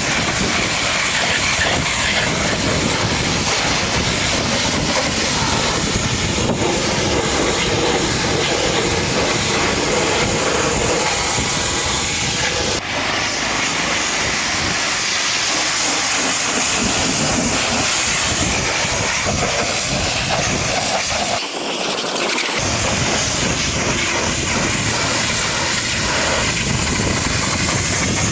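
High-pressure washer spraying water against a truck, a loud steady hiss with a rumbling undertone, dipping briefly twice.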